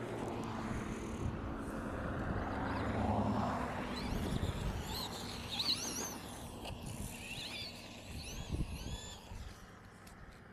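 Traxxas Stampede 2WD RC truck with a 3800kV brushless motor running flat out over the ground, a broad whirring and rolling noise. It is loudest about three seconds in and fades toward the end.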